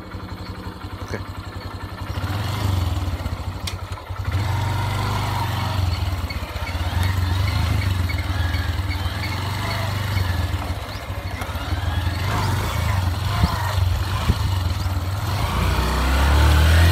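Vehicle engine working under load, its low rumble surging louder in steps at about two seconds, at about four seconds, and again near the end.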